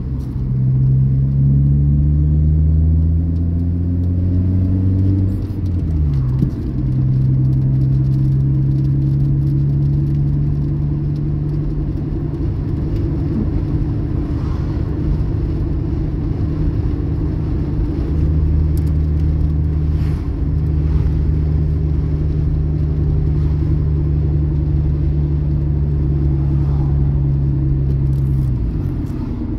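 Car engine heard from inside the cabin under the driver's pedal work. The revs climb over the first five seconds, fall away sharply, then hold steady for about twenty seconds before dropping again near the end.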